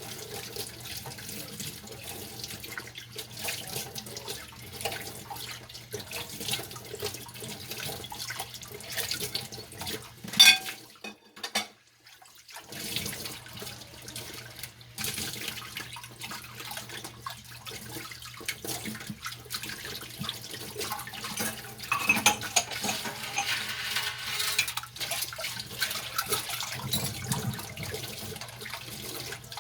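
Kitchen sink tap running while dishes are washed by hand, with frequent small knocks and clinks. About ten seconds in a sharp clank is followed by the water stopping for a couple of seconds before it runs again.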